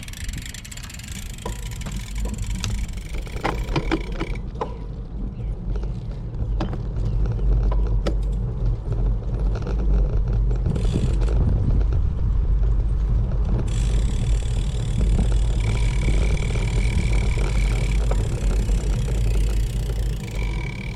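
Riding a bicycle along a road, with a heavy low rumble of wind on the microphone and passing traffic. It grows louder about six seconds in.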